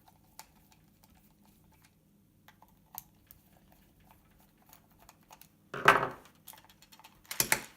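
Light scattered clicks of small screws being worked out of a plastic joystick case, then a louder burst of handling noise about six seconds in and small metal screws clattering onto a hard surface near the end.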